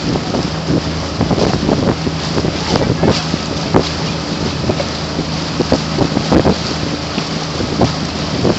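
Wind buffeting the microphone over the rush and splash of water around a moving boat, with a steady low hum underneath.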